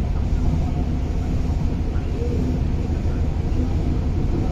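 Cabin noise of an East Rail Line R-Train electric multiple unit car under way: a steady low rumble of wheels on track with a faint motor hum.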